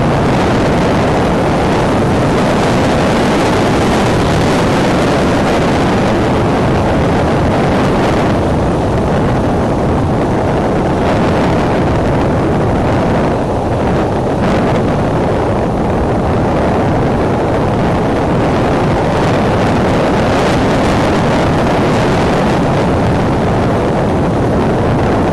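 Strong wind blowing across the eagle-nest camera's microphone: a loud, steady rush of wind noise, heaviest in the low end, that swells and eases slightly.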